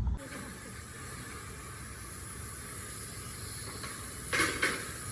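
A steady hiss with a faint high whine, broken near the end by two short, loud clatters.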